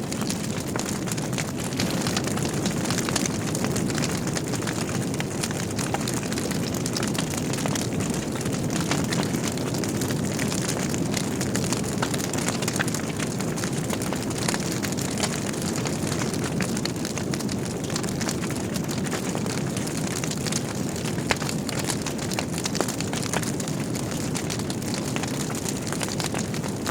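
Wood fire burning in a fireplace: a steady rush of flame with many small crackles and pops from the burning logs, and one louder pop about two-thirds of the way through.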